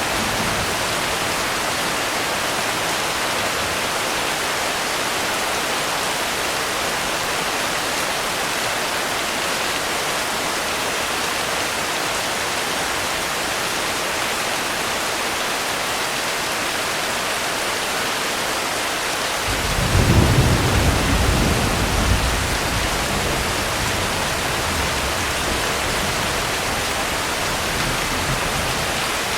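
Steady heavy rain with a low rumble of thunder that starts about two-thirds of the way through, peaks briefly and then slowly dies away under the rain.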